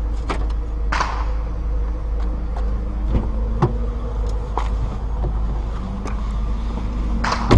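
Car engine running steadily under a constant low rumble, with a few scattered knocks and two short noisy swells, about a second in and near the end.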